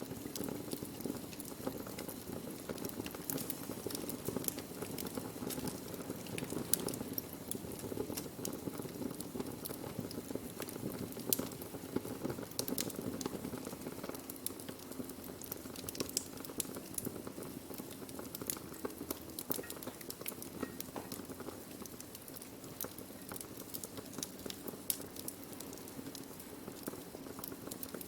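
Burning wood crackling, with frequent small sharp pops and snaps scattered irregularly over a low, steady rush of the flames.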